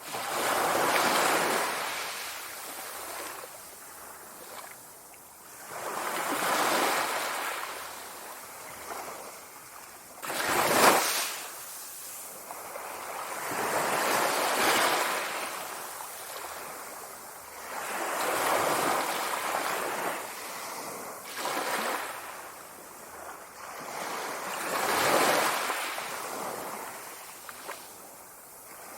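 Sea waves breaking and washing in, rising and falling in slow surges about every four to five seconds, with one sharper, louder crash about eleven seconds in.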